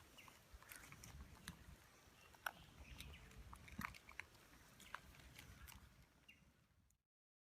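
Faint, scattered short clicks and brief chirps from birds over a low background rumble, fading out to silence near the end.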